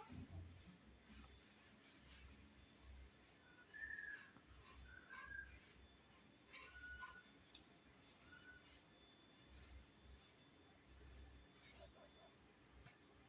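A steady, high-pitched insect trill, pulsing about five times a second, typical of a cricket. A few short, faint chirps come over it a few seconds in.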